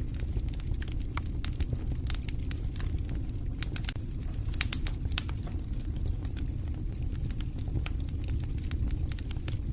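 Campfire crackling: irregular sharp pops and snaps over a steady low rumble, with a couple of louder pops about halfway through.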